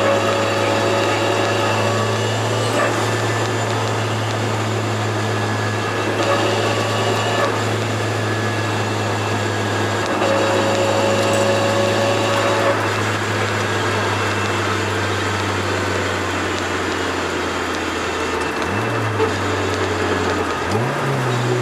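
Turbocharged Toyota AE86's engine running at a steady speed under road noise while driving. Near the end its pitch drops and climbs again twice.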